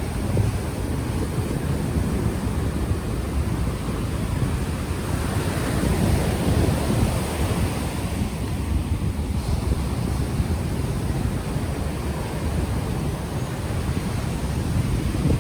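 Ocean waves washing onto the shore, mixed with heavy wind buffeting an unshielded microphone, which fills the low end with a steady rumble.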